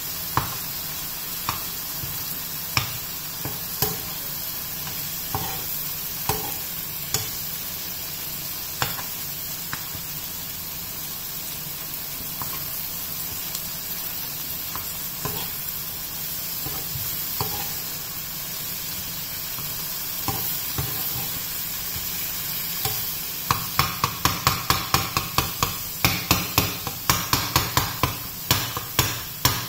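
Paneer, onion and tomato sizzling in a frying pan while a metal spoon stirs them, tapping the pan now and then. From about two-thirds of the way in, the spoon chops down into the pan repeatedly, about three or four knocks a second, mashing the paneer into bhurji crumbs.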